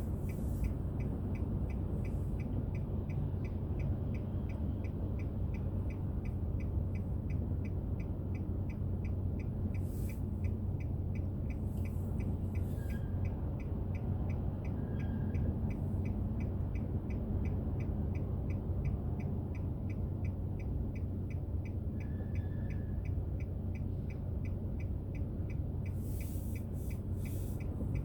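Car driving with a steady low engine and road rumble, and a faint regular ticking at about two a second.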